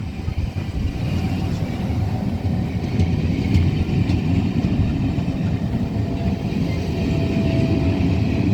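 A train running past, a steady low rumble with faint higher tones.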